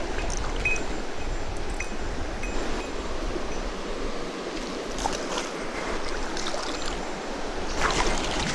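Mountain stream water rushing steadily over rocks, with a few brief knocks about five seconds in and near the end.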